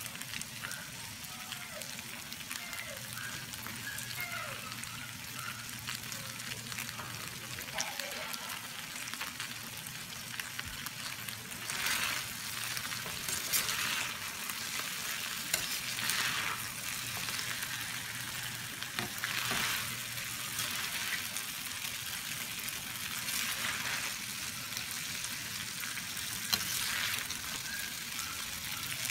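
Chicken and tofu sisig sizzling steadily in a flat metal pan. From about halfway through it is stirred and tossed with spatulas, which scrape against the pan every second or two.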